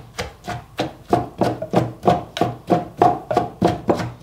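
Pestle pounding papaya salad in a Thai krok mortar in steady strokes, about three a second, each with a short ringing knock.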